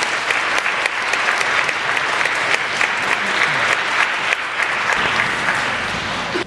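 Audience applauding steadily with many hands clapping, cut off abruptly at the end.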